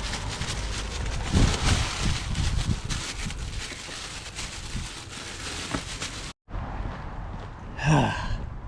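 Wind buffeting the microphone, with rustling and small knocks, until the sound cuts off abruptly about six seconds in. Near the end comes a short sound that bends in pitch.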